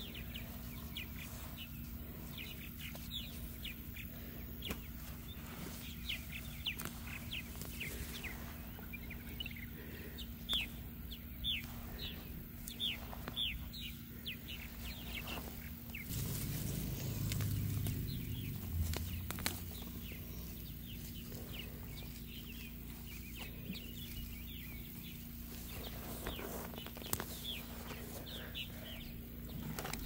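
Birds chirping, many short quick calls again and again, over a faint steady hum; a low rumble comes in for a few seconds around the middle.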